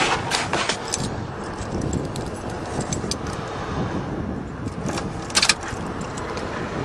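Truck keys jangling, at the start and again in a short burst about five seconds in, over a steady low rumble.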